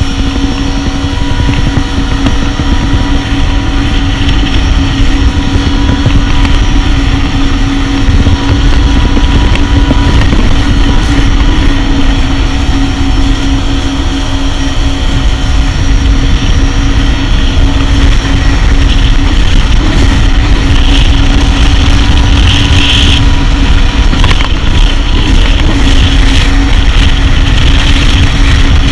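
Jet ski engine running at speed: a steady drone over a heavy low rumble, getting louder over the first several seconds, then holding steady.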